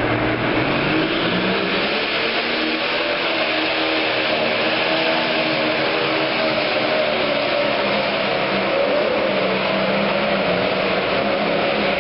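Pro stock pulling tractor's turbocharged diesel engine running hard under load, its pitch rising over the first couple of seconds and then holding high and steady.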